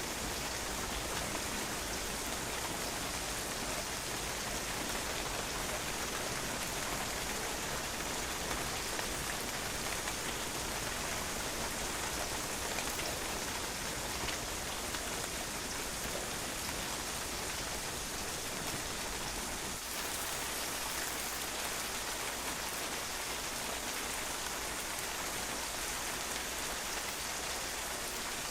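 Steady rain falling and drops spattering on a patio, a dense even hiss with fine pattering.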